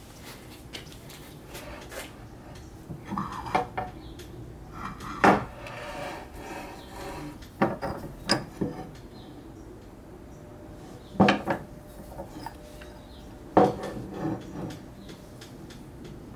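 Irregular metal clanks and knocks, the loudest about five, eleven and thirteen and a half seconds in, with lighter clinks and scraping between them: steel parts of a rusty cast-iron bench vise being handled.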